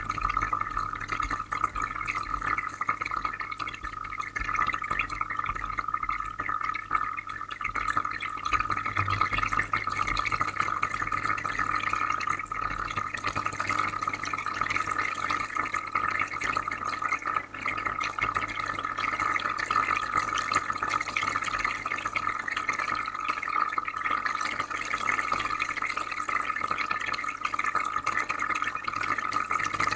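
Aquarium filter running, with water bubbling and trickling steadily over a low, constant electrical hum.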